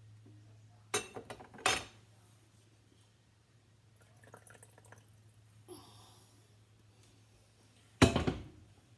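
Glass canning jars and a utensil knocking together while sauce is poured in to top the jars up: a few sharp clinks about a second in, softer clicking in the middle, and one loud knock near the end.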